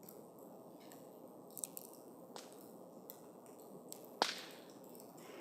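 Wood campfire burning with a steady low hiss, a few small crackles and one sharp, loud pop of burning wood about four seconds in.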